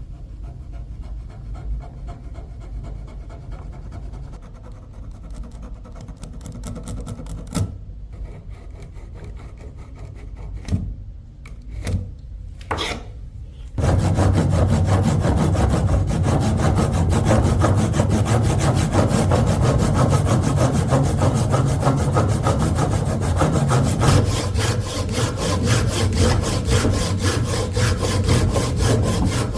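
Wood being cut or shaped with a tool. At first there are a few scattered knocks and scrapes, then from about 14 seconds in a loud, steady, rapid scraping.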